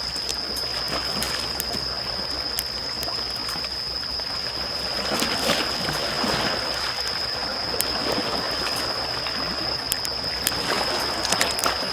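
Campfire crackling and popping with small waves washing in on the shore, swelling about halfway through and again near the end. A steady high thin tone sits behind it.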